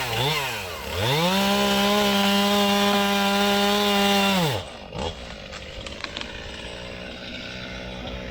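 Two-stroke chainsaw blipped twice, then opened up to full throttle at about a second in and held there at a steady high pitch for three and a half seconds. It is let off about four and a half seconds in.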